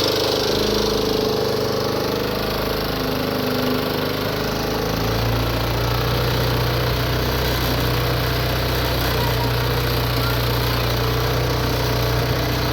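Tractor engine running steadily; about five seconds in its note changes to a strong, even low hum.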